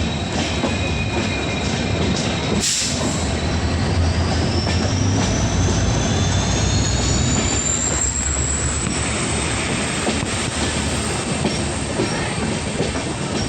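Indian Railways sleeper coach running on the track, its wheels squealing over a steady rumble. The squeal climbs in pitch from about four seconds in to near nine seconds, the flange squeal typical of wheels on a curve, and a short sharp knock comes about three seconds in.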